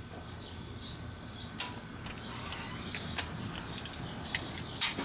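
Irregular light clicks and clinks, a few at first and more often near the end, over a steady low hum.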